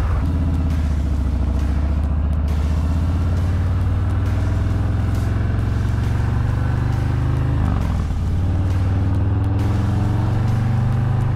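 Harley-Davidson Low Rider S's Milwaukee-Eight 117 V-twin running through a Bassani 2-into-1 black chrome exhaust while riding, its pitch climbing slowly, dipping briefly about eight seconds in, then climbing again.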